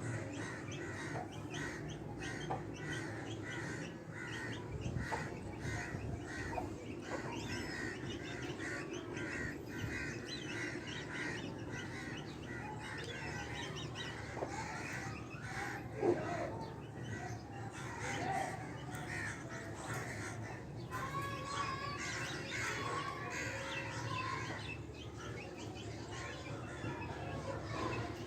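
Many birds chirping and calling together in a continuous chorus of short, overlapping chirps.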